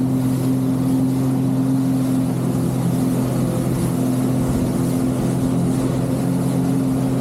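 Jet ski engine running at a steady speed, its pitch holding level.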